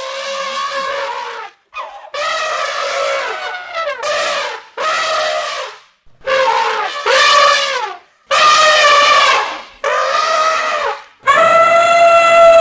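Elephant trumpeting: a run of about nine loud, brassy calls, each a second or so long with short gaps between them, several dropping in pitch at the end.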